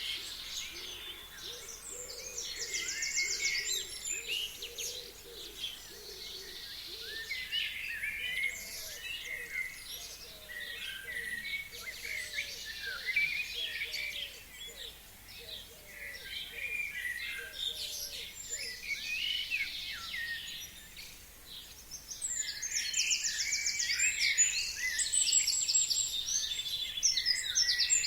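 Several forest birds singing at once in spring, with overlapping chirps and fast trills, and a faint run of short, lower repeated notes under them for much of the time. The singing grows louder and denser for the last several seconds.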